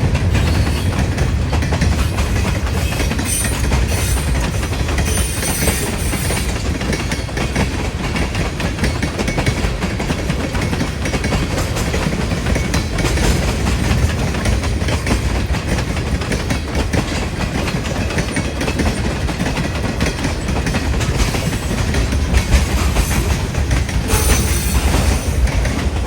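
Freight train cars rolling past, their steel wheels clicking over the rail joints in a steady rumble, with wind buffeting the microphone.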